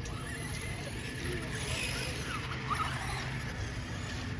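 Small RC car driving across concrete, a steady mix of motor and tyre noise that grows a little brighter around the middle.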